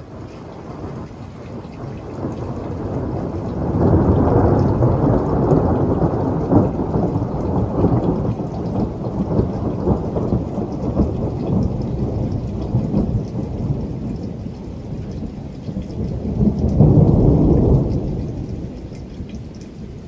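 Thunder rumbling over rain. A long roll swells about four seconds in and slowly eases, then a second, shorter peak comes near the end.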